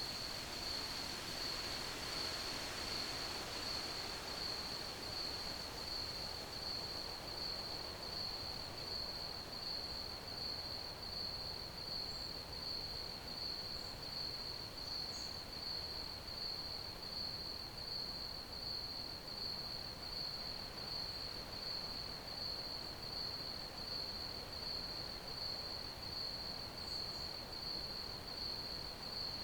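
Crickets chirping: one steady, evenly pulsing high-pitched chirp over a soft background hiss.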